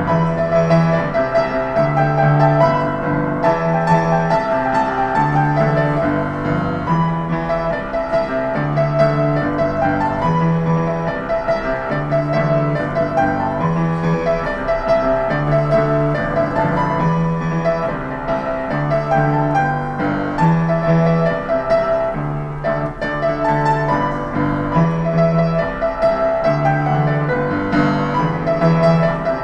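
Street piano played continuously, with a fast melody over a steady, repeating bass pattern.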